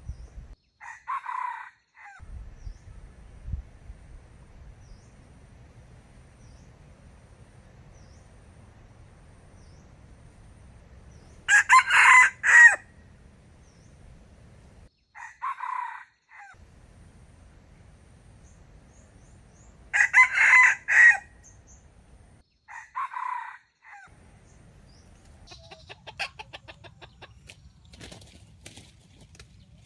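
A rooster crowing twice, long and loud, with three shorter calls in between. A rapid rattle of clicks and rustling comes near the end.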